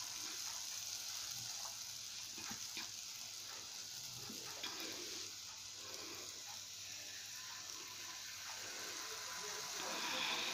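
Jalebi batter frying in shallow hot ghee: a steady, faint sizzle with a few small crackles. It grows a little louder near the end as a second spiral of batter goes into the ghee.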